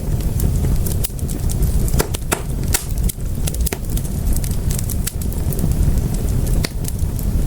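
Wood fire in a fireplace crackling, with many irregular sharp pops and snaps, several a second, over a steady low rumble of the flames.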